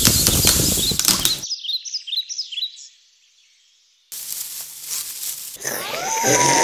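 Sound effects from a children's stop-motion soundtrack. A loud rushing blow with cracking and clattering, the wolf blowing the house of sticks down, stops after about a second and a half. Quick high bird-like chirps follow, then near silence, and near the end a wavering, voice-like howl begins.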